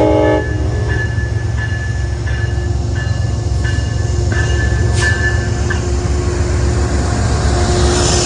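Metro-North train running past with a steady low rumble. A short horn note sounds at the very start, then a high wheel squeal comes and goes for about five seconds, and a hiss rises near the end.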